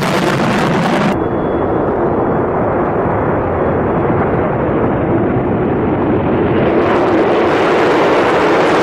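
Tu-160 bomber's four NK-32 afterburning turbofans at takeoff power: loud, steady jet engine noise with a deep rumble. The high hiss drops out abruptly about a second in and builds back near the end.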